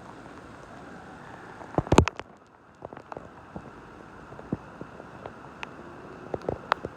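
Steady rain hiss with scattered individual drops tapping close by. About two seconds in there is a quick cluster of loud taps, the loudest moment.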